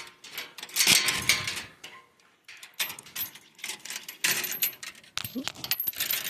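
Irregular clinks, clatters and knocks as a horse is let out of its stall.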